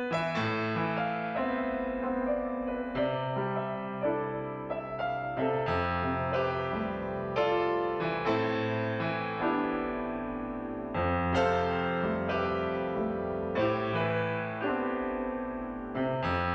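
Background piano music: gentle notes and chords struck every second or so, each ringing and fading.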